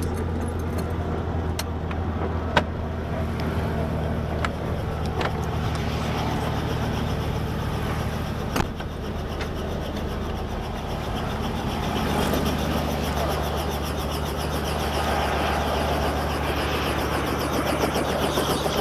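Helicopter running, a steady low drone with a fast, even rotor beat that grows stronger over the last few seconds. Two sharp clicks stand out, one a few seconds in and one about halfway through.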